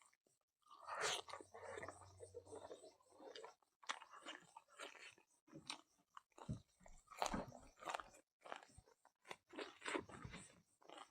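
A person chewing and crunching a mouthful of food close to the microphone, with faint irregular smacks and crunches.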